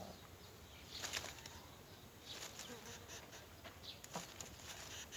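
Short, scratchy bird calls and rustling at a nest, in a few separate bursts about a second apart.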